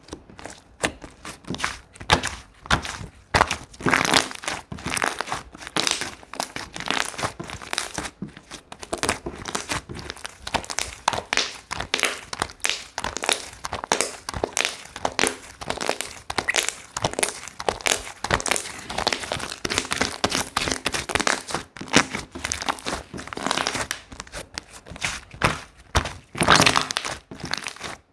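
Slime being squeezed, stretched and folded by hand, giving a dense, irregular run of small clicking and crackling pops.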